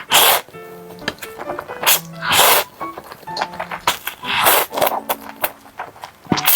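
Buldak spicy noodles being slurped in short, loud, airy bursts every second or two over soft background music.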